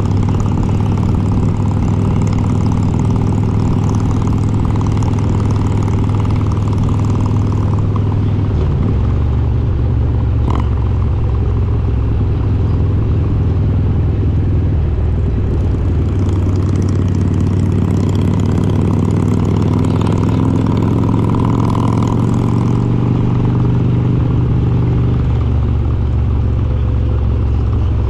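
Harley-Davidson Road King's S&S 95-cubic-inch V-twin running steadily under way, its note changing pitch about nine seconds in and again near the end.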